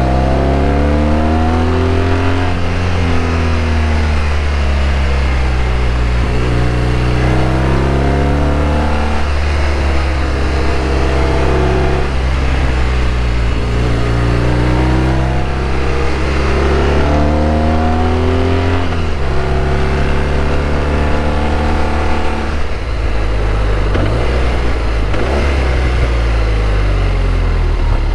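BMW R1200RT's flat-twin boxer engine pulling on the road, its pitch climbing and then dropping several times as the bike accelerates and shifts gears, with a steady rushing noise over it.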